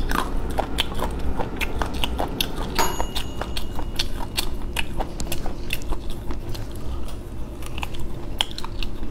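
A person chewing and biting into cooked chicken drumsticks, with many irregular sharp crunchy clicks.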